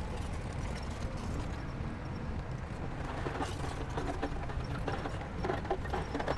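Crawler bulldozer's diesel engine running with a steady low rumble, its steel tracks clanking and rattling. The clanking gets busier from about halfway through.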